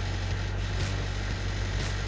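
Mustang 2050 skid steer's engine idling steadily, with a faint swish repeating about once a second.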